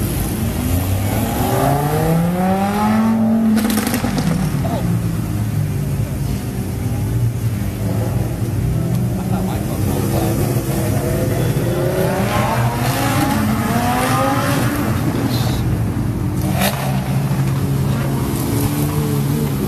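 Exotic sports car engines running as a line of cars pulls out slowly. The revs rise and fall about two seconds in and again around twelve seconds in, over a steady engine drone.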